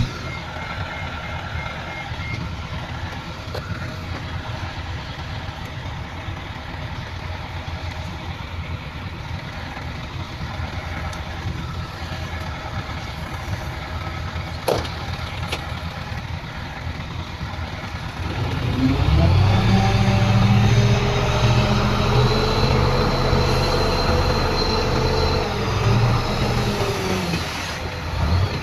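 Heavy diesel earthmoving machinery running with a steady low rumble, with one sharp knock about halfway. About two-thirds of the way in, an engine revs up under load, holds for several seconds, then eases off near the end.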